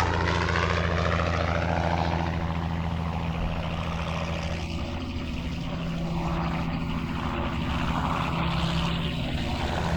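Aircraft engines droning steadily as they fly past and draw away, a low engine hum under a broad rushing noise. The display formation is an F-86 Sabre jet with a twin piston-engined DH-88 Comet.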